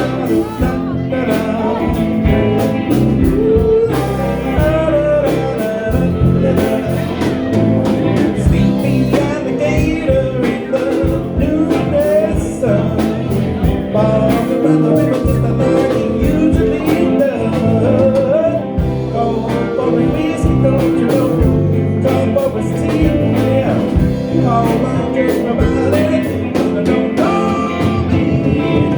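A band playing a bluesy old-time tune, with a singer over guitar and other instruments.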